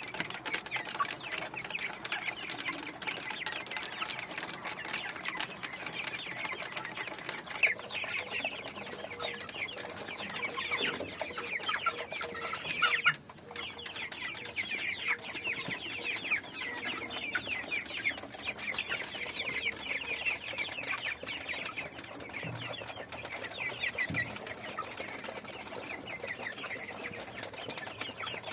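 Chickens calling: a dense stream of many short, overlapping clucks and cheeps. The sound drops out briefly about halfway through.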